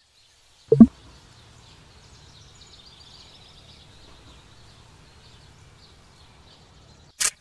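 A brief loud bump about a second in, then faint steady background ambience with scattered faint high chirps of small birds.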